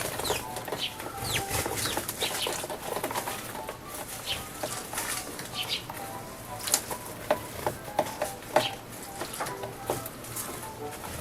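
Eurasian tree sparrows chirping over and over while they bathe, with sharp splashes and wing flutters in the bird bath water. The splashes are loudest a little past the middle.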